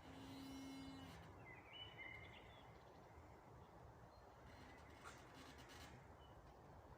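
Quiet forest ambience with faint birdsong: a short warbling phrase about a second and a half in, and a few fainter chirps later.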